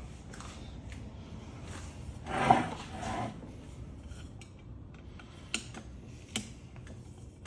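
Scattered light clinks and clicks of small metal ceiling-fan parts and screws being handled and set down during disassembly, with one louder scrape or clatter about two and a half seconds in.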